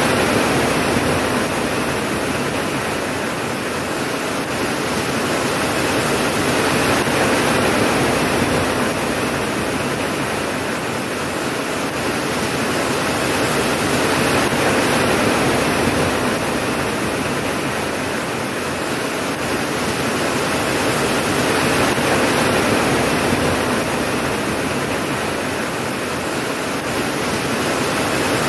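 Steady heavy rain falling, a dense even hiss that swells and eases gently about every seven seconds, with no thunder.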